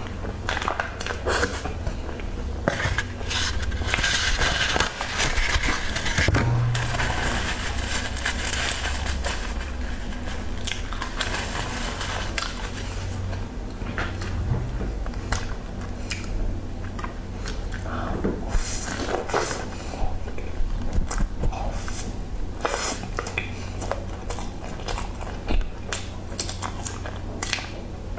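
Close-miked eating: chewing and biting into soft, cheese-filled buns coated in pork floss, with many small mouth clicks and smacks over a steady low hum. A plastic snack packet crinkles as it is handled.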